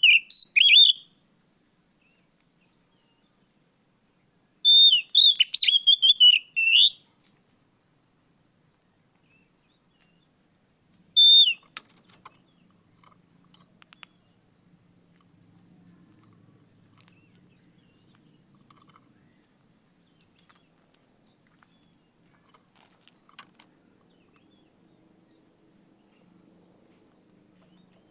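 Oriental magpie-robin (kacer) singing loud whistled, warbling phrases: one right at the start, a longer run about five to seven seconds in, and a short one around eleven seconds. Between and after the phrases, only faint short trains of high ticks repeat.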